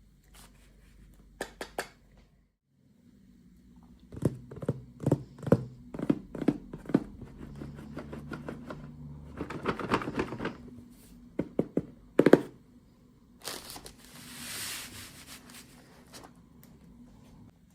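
Toy packaging being opened by hand: scattered clicks and taps of plastic, a crinkling rustle about ten seconds in, a sharp knock a little after, then a tearing rustle.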